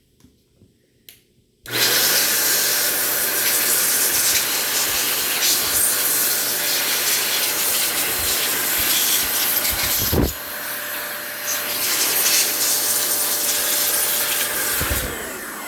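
Air duster blowing a loud, steady rush of air into the laptop's cooling fan. It starts about two seconds in, breaks off briefly a little after ten seconds, and trails off near the end.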